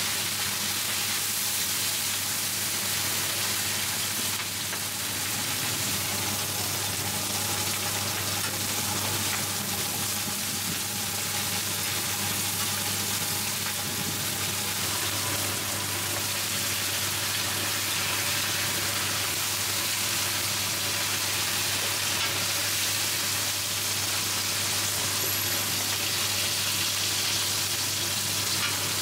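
Shrimp and mussel pancake batter frying in shallow oil on a large flat griddle, sizzling steadily with a constant hiss, over a low steady hum.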